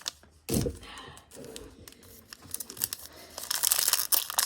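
Trading cards and their plastic-foil packaging being handled. A soft knock about half a second in, then rapid crinkling and clicking from about three seconds in.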